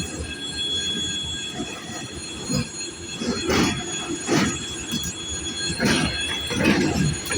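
Freight train wagons rolling past, the wheels squealing on the rails in steady high tones. From about halfway in, the wheelsets give loud thumps in pairs, about a second apart, as they cross the rail joints.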